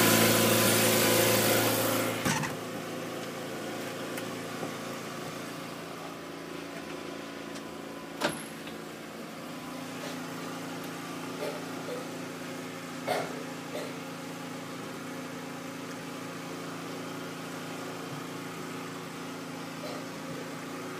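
Loud noise from outside, with a steady engine-like drone in it, cuts off with a knock about two seconds in as the door is shut. Then a quieter steady machine hum remains, with a few faint clicks.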